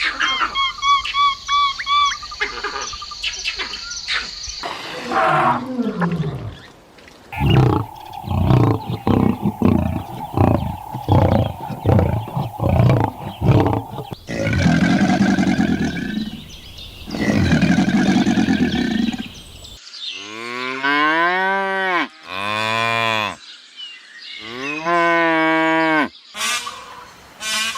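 A run of different animal calls, one after another, among them two long, low cattle moos about halfway through, followed by several calls that fall in pitch.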